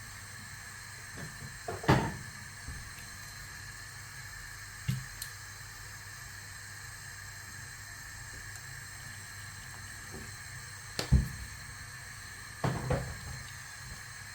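Kitchen handling noises: a handful of separate short knocks and clunks, the loudest about two seconds in and about eleven seconds in, over a steady low hum.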